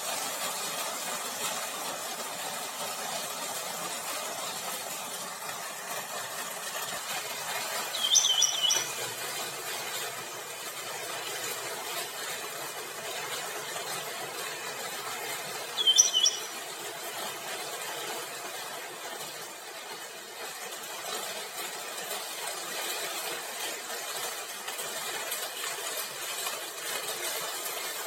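A bird gives two short, high chirps about eight seconds apart over a steady background noise.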